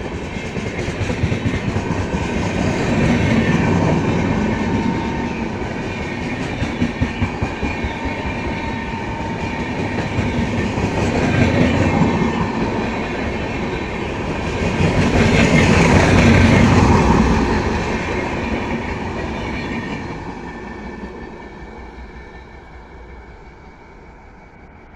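Passenger train coaches rolling past with a rhythmic clickety-clack of wheels over the rail joints, swelling and easing as the cars go by, loudest about two-thirds of the way through. The sound then fades away as the end of the train recedes.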